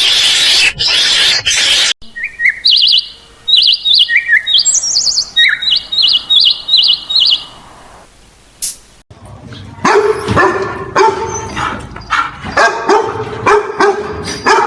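The tail of a loud, rough animal call, then a bird chirping in short, quick, high notes for about five seconds. From about nine seconds in, an animal gives a fast run of short, yapping cries, most likely a small dog barking.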